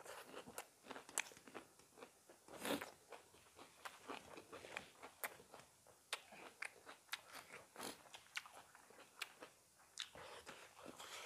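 Close-up eating sounds of people eating chicken curry and rice by hand: chewing and lip-smacking, an irregular run of small wet clicks and smacks.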